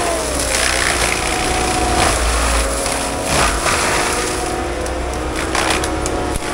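Heavy equipment diesel engine running steadily under load, with a whine that shifts up and down in pitch and scattered crackling noises over it.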